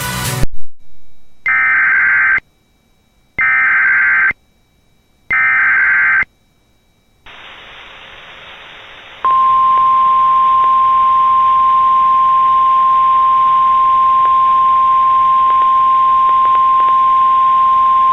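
Emergency Alert System SAME header: three one-second warbling data bursts. Then radio receiver hiss, and about nine seconds in the NOAA Weather Radio 1050 Hz warning alarm tone sounds as one long steady tone, signalling that a warning (here a river flood warning) is about to be broadcast.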